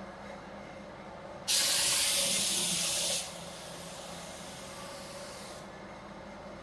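Compressed-air paint spray gun hissing as primer is sprayed: a loud, even burst of about a second and a half starting about a second and a half in, then a fainter hiss that stops some two seconds later. A steady low hum runs underneath.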